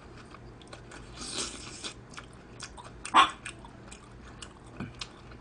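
A person chewing a mouthful of spicy stir-fried pork intestines (gopchang) close to the microphone: small wet mouth clicks and chewing, with a short louder mouth sound about three seconds in.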